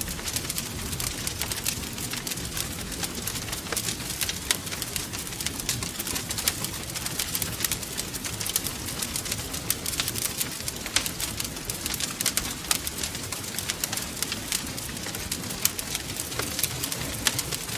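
Wood fire burning in a fireplace: a constant stream of sharp, irregular crackles and pops over a low, steady rumble of the flames.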